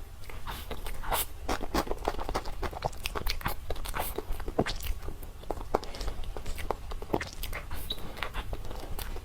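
Close-miked eating: a person biting and chewing a soft dessert, heard as many sharp, irregular mouth clicks and smacks. A faint steady low hum runs underneath.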